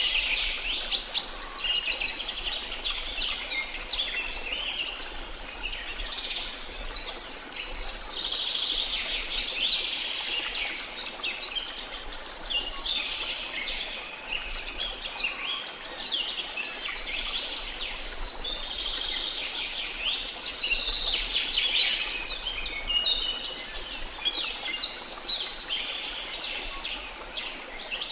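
A dense chorus of many birds chirping and singing at once in quick, overlapping calls, with a sharp, loud note about a second in.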